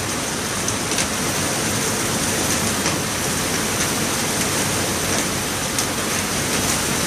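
Heavy rain pouring down in a cyclone's downpour, a steady loud hiss with a few sharp drop hits.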